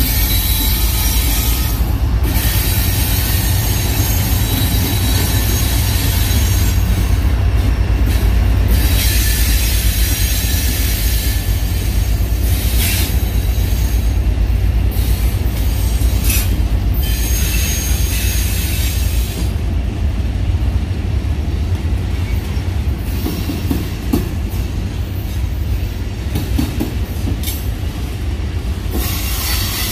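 Union Pacific freight train cars rolling past close by: a steady low rumble of steel wheels on rail, with high wheel squeal coming and going.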